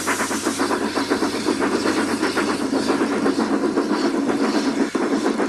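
Model Lord Nelson Class steam locomotive's sound decoder giving a fast, even steam chuff as the model express runs through at speed.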